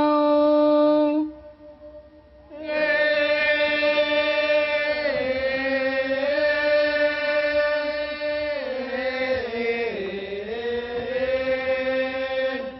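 A single voice chanting the Thai royal barge song (kap he ruea), drawing out its syllables in long held notes that bend slowly in pitch. The voice breaks off about a second in and resumes with one long sustained note after a short pause.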